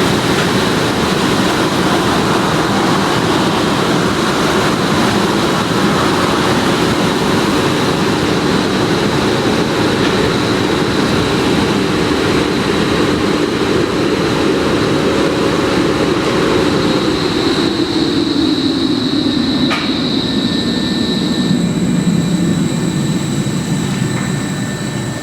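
Car wash air-dryer blowers running loud and steady with a high whistle, their hum sliding lower in pitch over the last several seconds as they wind down or pass by.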